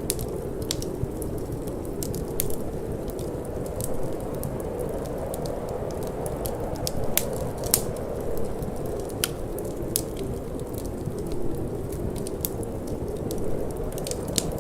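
Wood fire crackling in a fireplace, with scattered sharp pops and snaps, a few louder ones around the middle, over a steady low rushing of cold wind.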